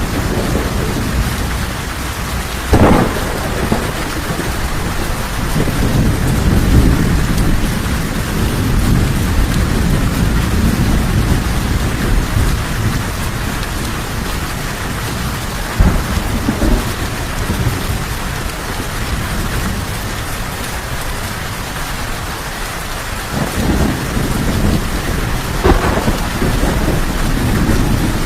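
Steady heavy rain with rolling thunder that swells and fades. There are sharp thunder cracks about three seconds in, around the middle, and near the end.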